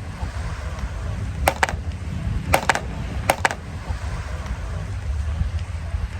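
Small hard objects clinking together, three quick double clinks, over a steady low rumble.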